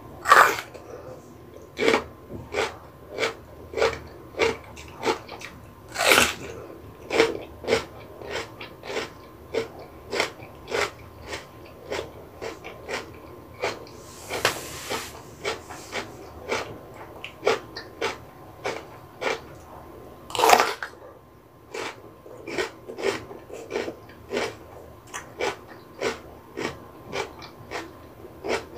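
Close-up crunching and chewing of raw yellow bell pepper: crisp bites into the firm flesh followed by steady, rhythmic wet chewing. A few bites are much louder, the loudest near the start and about twenty seconds in.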